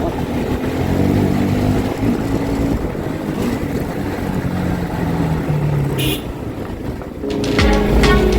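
Motorcycle engine running under way, its pitch stepping up and down with the throttle, over wind and road noise. Background music comes in near the end.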